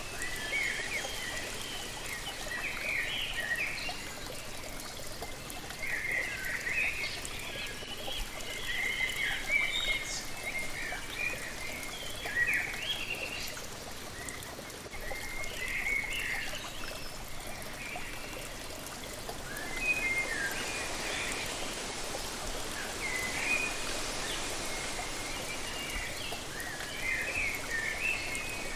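Steady rush of a waterfall with songbirds chirping in short repeated bursts over it. The water noise swells about halfway through and again from about two-thirds in.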